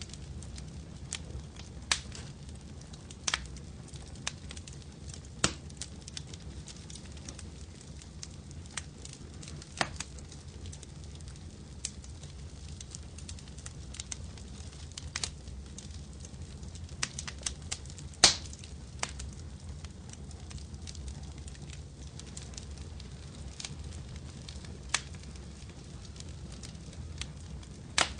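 Wood fire crackling in a fireplace: irregular sharp pops and snaps over a steady low rumble of burning, with one louder pop about two-thirds of the way through.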